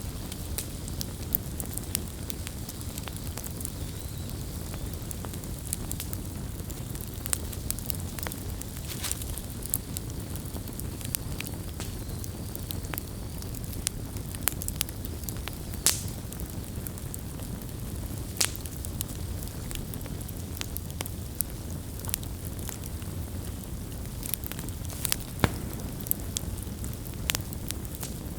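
Campfire burning with a steady low rumble of flame and irregular sharp crackles and pops of burning wood.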